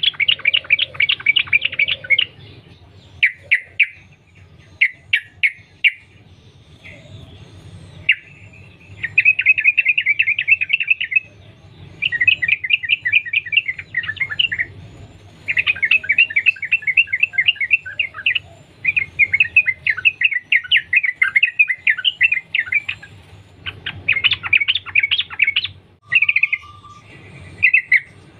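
Yellow-vented bulbul (trucukan) singing long, rapid chattering runs of quick repeated notes. Runs last a few seconds each, with short pauses and a few brief bursts between them.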